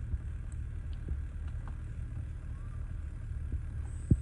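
Car engine idling with a steady low rumble, and one sharp click near the end.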